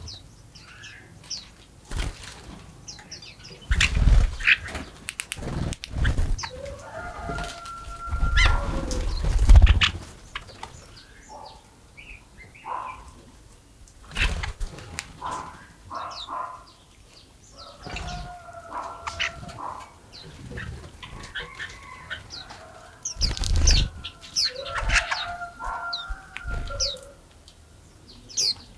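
Several wild birds chirping in quick, short notes, while a larger bird gives a longer call three times, and a few low thumps come through, the loudest about a third of the way in.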